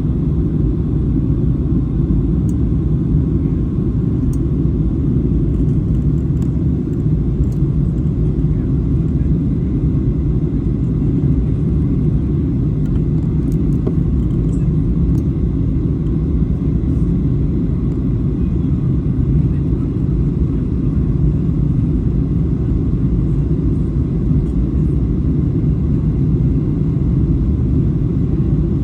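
Steady low rumble of jet engine and airflow noise inside the cabin of a Boeing 737-800 airliner in flight on its landing approach.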